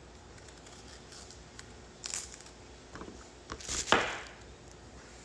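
A few short handling noises, rustles and knocks, the loudest about four seconds in.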